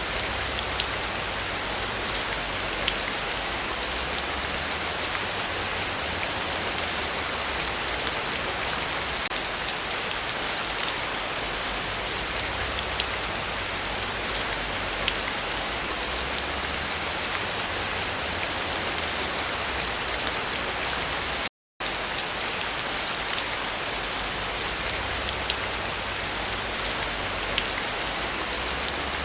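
Heavy rain falling steadily, a dense even hiss with scattered sharper drop ticks. The sound cuts out completely for a split second about two-thirds of the way through.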